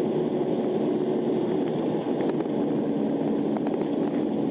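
Steady vehicle engine and road noise, its hum stepping down slightly in pitch about halfway through.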